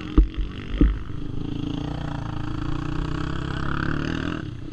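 Two low thumps, then a motocross bike's engine running, growing gradually louder before falling away near the end.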